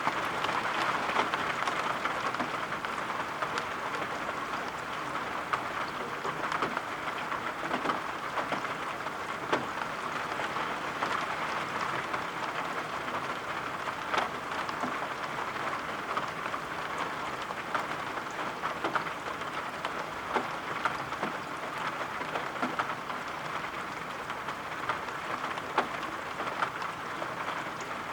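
Steady rain falling, an even hiss with many scattered light ticks.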